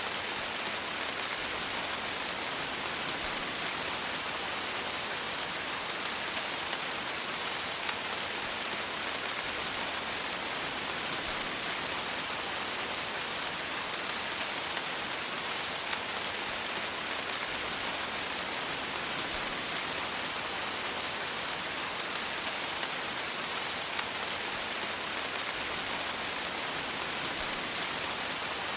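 Steady rain falling, an even hiss of many small drops hitting a surface, with no change in intensity.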